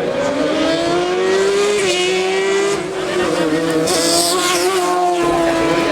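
Race car engine at high revs accelerating hard up a hillclimb course: its pitch rises over the first two seconds and then stays high with brief dips, like quick gear changes or lifts.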